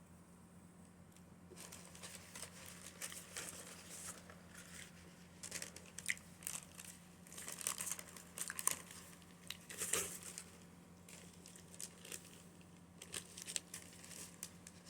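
Paper sandwich wrapper rustling and crumpling in irregular crackles, starting about a second and a half in.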